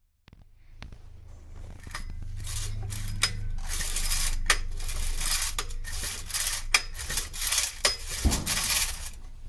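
Metal clinking and scraping, a busy run of sharp clicks over a rasping, rubbing noise, rising in level over the first few seconds.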